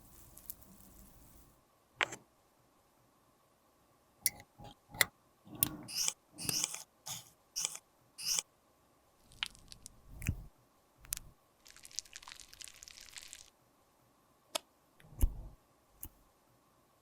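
Close-up handling of makeup products and tools: a quick run of sharp clicks and taps, two stretches of soft hissy scraping, and a couple of low thumps.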